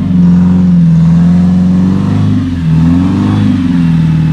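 Off-road 4x4's engine revving hard under load as the vehicle climbs a muddy bank. The revs hold high, dip briefly about halfway through, then climb again.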